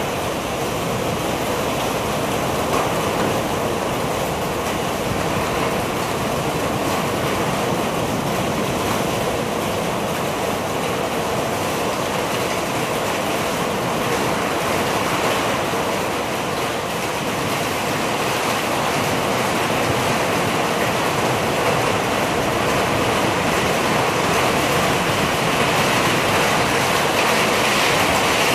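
Heavy wind-driven rain pouring down in a severe thunderstorm: a dense, steady rush that grows a little louder near the end.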